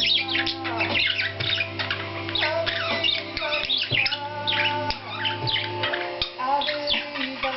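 Several pet budgerigars (parakeets) chattering and chirping rapidly and continuously, with music playing in the background.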